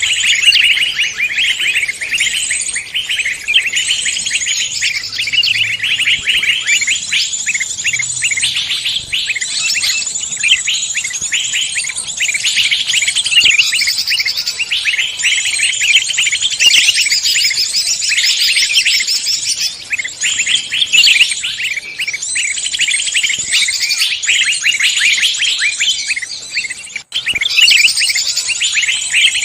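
Dense chorus of many small songbirds chirping and twittering over one another without pause, a bird-lure recording of mixed forest species. The sound drops out for an instant near the end.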